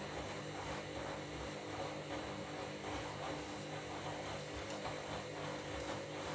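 Washing machine running a load of bed linen: a steady motor hum with faint repeated knocks as the drum turns.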